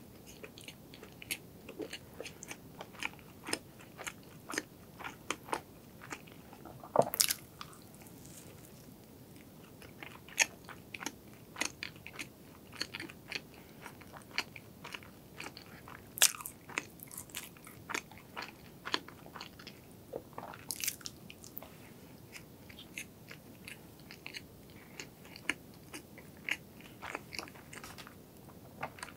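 Close-miked chewing of a soft white pastry: a steady run of small wet mouth clicks and smacks, with a few louder ones about 7, 16 and 21 seconds in.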